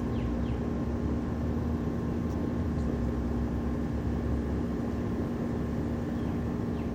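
A steady low rumble with a faint constant hum, the sound of a motor or engine running without change.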